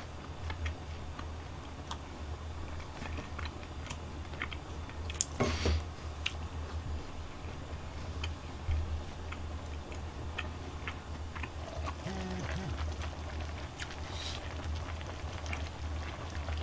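Close chewing and mouth sounds from eating fried chicken, with scattered small clicks, over a steady low hum.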